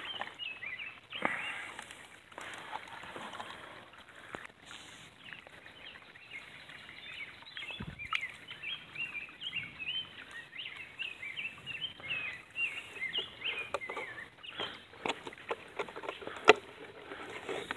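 A small bird calling in quick, repeated short chirps through the middle stretch, over faint outdoor background. Scattered sharp clicks and knocks, the loudest one near the end.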